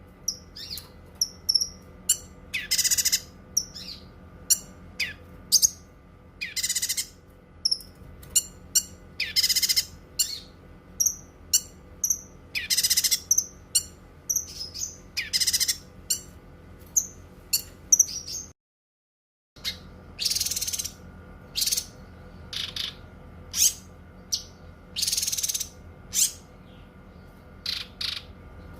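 Cucak kinoi songbird singing: loud, rough song phrases every second or two, with quick high chirps between them over a faint steady hum. The sound cuts out completely for about a second two-thirds of the way through.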